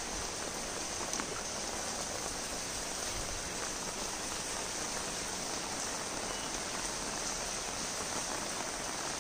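Steady rain falling onto shallow floodwater covering a paved lane: an even hiss of drops striking the water's surface.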